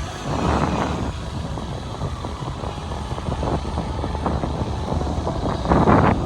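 Wind buffeting the microphone of a moving rider, over a steady low rumble, with louder gusts about half a second in and near the end.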